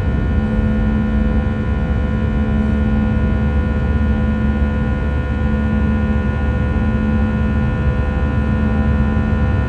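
Airbus A321 jet engines heard from inside the passenger cabin: a steady, loud low rumble with a hum of several held tones over it, unchanging throughout.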